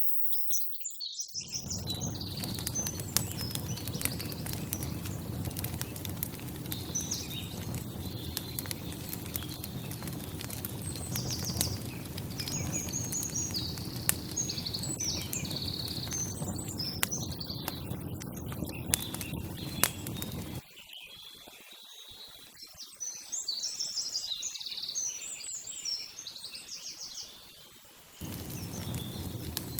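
Small birds chirping repeatedly over a steady low background noise with scattered light clicks. The background noise cuts out for several seconds in the second half, leaving mostly the chirps.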